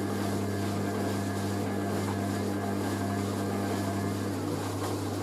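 Hoover A3060 Electronic 1100 washing machine spinning at an intermediate speed with a steady hum. A tone in the hum cuts out about four seconds in.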